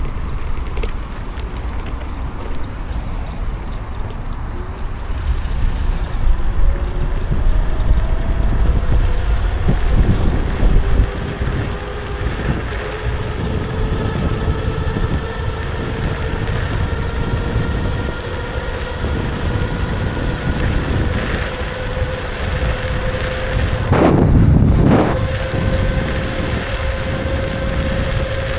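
Kukirin G2 electric scooter riding along: the motor gives a thin whine that slowly rises in pitch as it gathers speed, over heavy wind buffeting on the microphone and road rumble. A brief louder rush comes about 24 seconds in.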